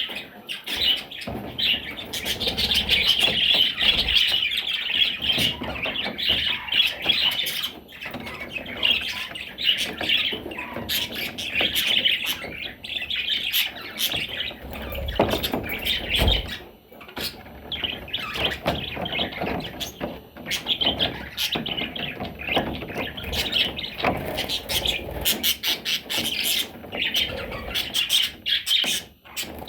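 Budgerigar chattering and warbling almost without a break, a fast stream of chirps, squawks and clicks, with a couple of dull bumps about halfway through.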